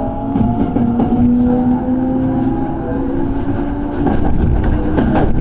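Electric train running between stations, heard from inside the carriage: a steady whine from the traction motors rises slowly in pitch as the train gathers speed, over the rumble of the wheels. From about four seconds in the running noise gets louder, with a few clicks from the wheels on the rails.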